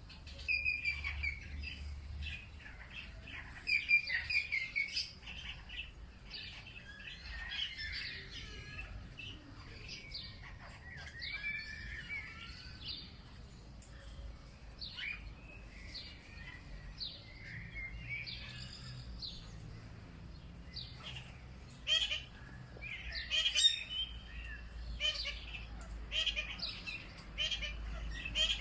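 Several wild birds chirping and calling over one another, a dense mix of short high chirps and warbles with no pause, a few louder calls standing out.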